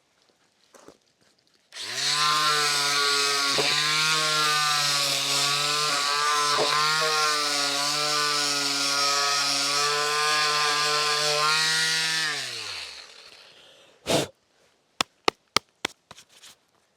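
An electric power tool runs at a steady speed for about ten seconds with a hissing, working sound, then is switched off and spins down with falling pitch. A single knock and a few sharp clicks follow near the end.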